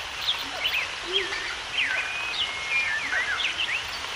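Several birds chirping and calling over one another in a dense chorus of short, quick notes that swoop up and down in pitch, over a steady background hiss.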